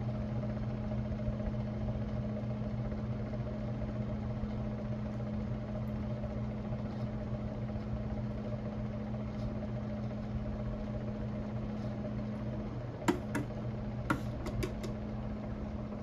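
Hampton Bay Gazebo Plus ceiling fan running, its motor giving a steady hum. A few sharp clicks come near the end.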